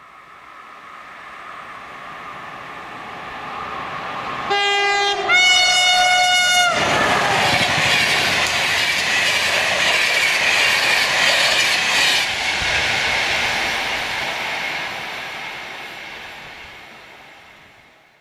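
Passenger train approaching and passing close by on the rails. A two-note horn sounds about four and a half seconds in, a short lower note then a longer higher one. Then the coaches' wheels run past loudly, fading away near the end.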